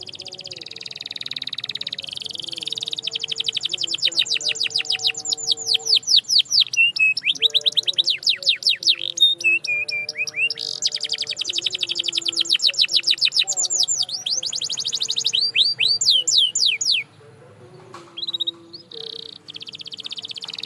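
Domestic canary singing long rolling trills: runs of very rapid, evenly repeated downward-sweeping notes that change speed from run to run, with a short pause about three-quarters of the way through before the song resumes.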